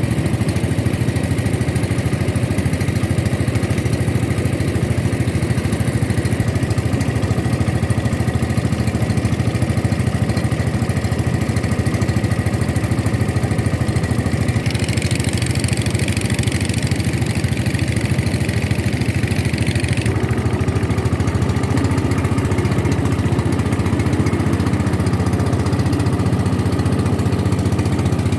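A motorboat engine runs steadily at an even speed. A rushing hiss joins it for about five seconds in the middle.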